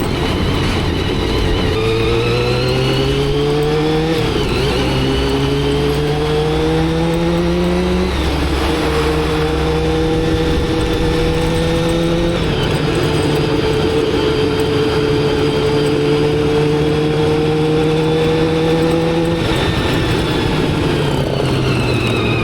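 Motorcycle engine pulling through the gears: the engine note climbs, drops at upshifts about 4, 8 and 12 seconds in, then holds steady at cruising revs before falling as the bike slows near the end.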